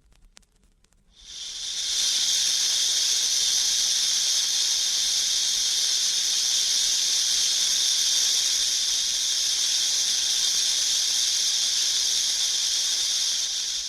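Snake sound effect: one continuous, steady hiss that starts about a second in, holds at an even level for some twelve seconds and then cuts off sharply.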